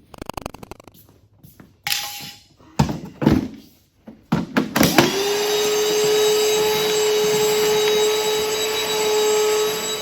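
An old vacuum cleaner being handled with knocks and clatter, then switched on about halfway through: its motor spins up quickly and runs steadily with a constant whine, sucking up loose grass and a bird nest.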